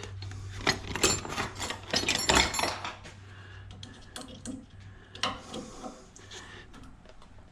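Small metal scrap pieces and hand tools clinking and clattering as they are handled, with many sharp clicks in the first three seconds and fewer, quieter ones after. A low hum runs under the first two and a half seconds.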